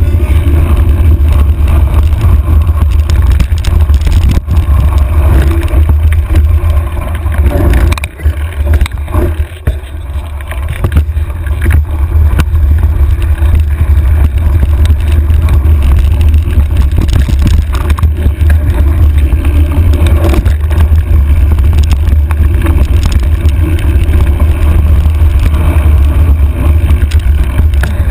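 Wind buffeting the microphone of a handlebar-mounted camera during a fast trail ride: a constant deep, loud rumble that drops away briefly about eight seconds in, then returns.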